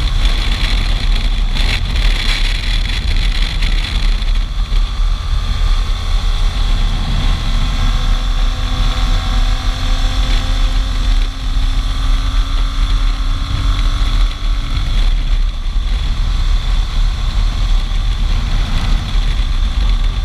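Motorcycle engine running at a steady cruising speed, nearly buried under heavy wind buffeting on the microphone.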